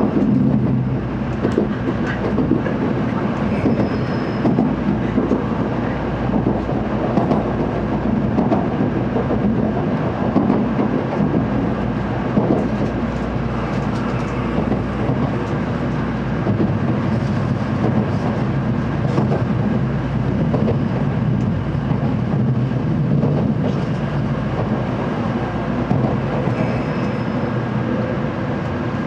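Cabin noise inside a JR Central N700A Shinkansen running on the line: a steady, even noise of wheels, track and train.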